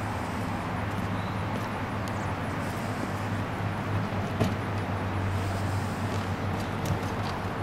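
Vespa 400's two-stroke twin-cylinder engine idling steadily, with one sharp click about four and a half seconds in.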